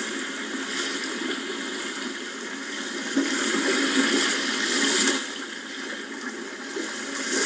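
Sea waves surging and washing back in a continuous rush of water. One wave swells up about three seconds in and falls away just after five seconds.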